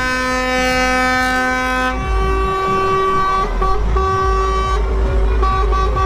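Truck air horns blowing long, sustained chords over deep engine rumble; one set of tones gives way to another, lower-and-higher mix about two seconds in, with brief breaks later on.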